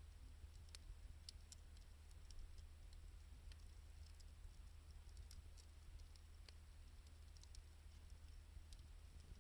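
Faint crackling of a wood fire burning 2×4 lumber and scrap wood: sparse, irregular sharp pops over a steady low hum.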